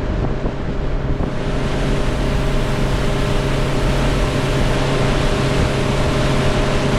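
Motorboat engine running steadily under way, with a rush of wind and water that grows louder about a second in.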